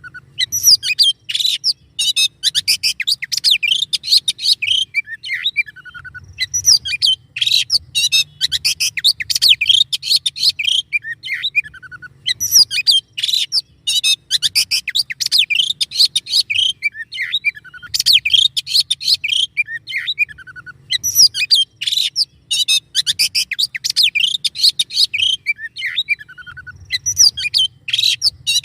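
Songbird 'masteran' recording of fast, dense, harsh song ('tembakan') in repeated phrases of about five seconds, coming roughly every six seconds. Each phrase opens with a falling whistle and runs into rapid high notes. It is a recording made for training caged songbirds to sing, with a faint low hum underneath.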